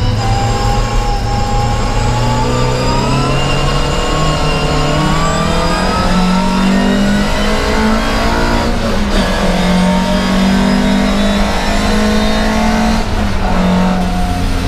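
Volvo 544 Sport racing car's four-cylinder engine heard from inside the cockpit under hard acceleration. Its pitch climbs over the first several seconds, drops briefly about nine seconds in and again near the end, and rises again each time.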